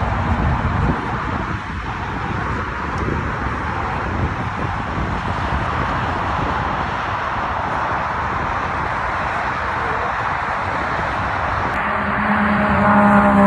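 Steady rushing wind and road noise while riding. About twelve seconds in, a passing dirt bike engine comes in loud, its pitch falling as it goes by.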